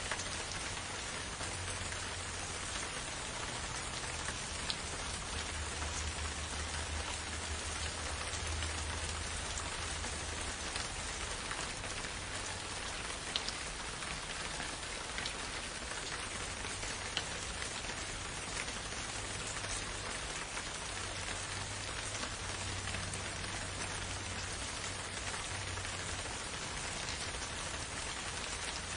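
Steady rain, an even hiss with a few sharper individual drops standing out, over a low rumble that swells and fades underneath.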